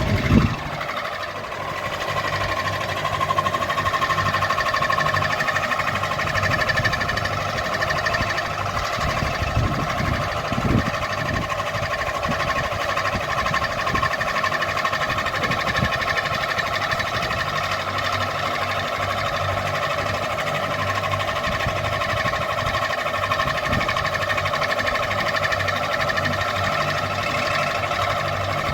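Ceiling fan running with a steady whine over an uneven low rumble. There is a brief knock just after the start and another about eleven seconds in.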